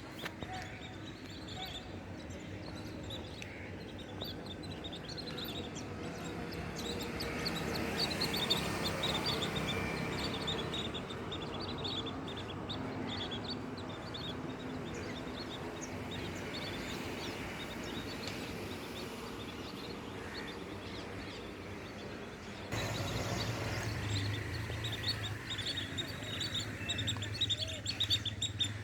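A flock of birds chirping and calling together in many short, high notes. About three quarters through, a low rumble comes in suddenly under the calls.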